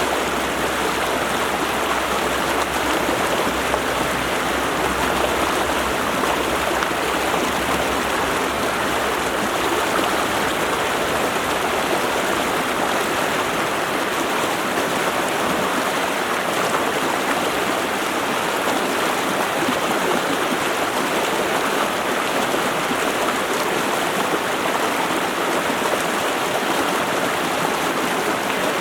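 Water rushing steadily over rocks in a stream, an even, unbroken rush.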